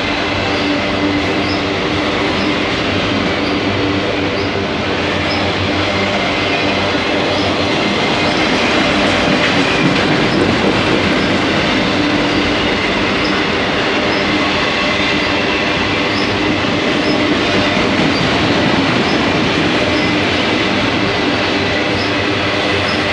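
Freight train of autorack cars rolling past at steady speed: a continuous rumble and rattle of steel wheels on rail, with faint light clicks about once a second.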